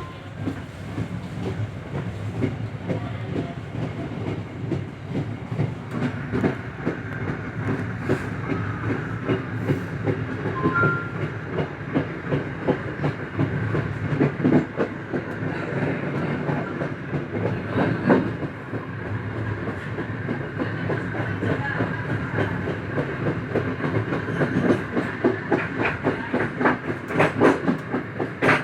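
Passenger train running along the track: a steady rumble with the wheels clicking over rail joints, the clacks growing louder and closer together toward the end.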